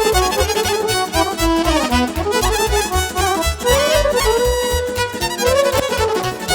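Instrumental break of live Romanian folk party music: a melody line over a fast, steady bass beat.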